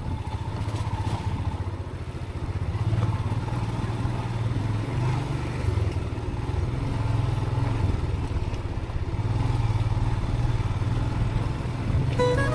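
Motorcycle engine running at low speed, its note swelling and easing several times as the bike is ridden along a rough track.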